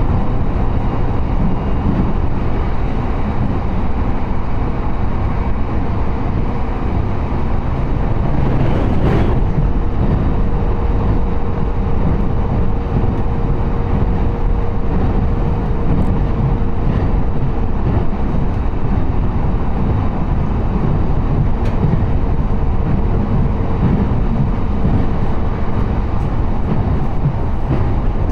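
Steady rumble of a moving train as heard inside the passenger car, with a faint steady hum over part of it and a brief rushing sound about nine seconds in.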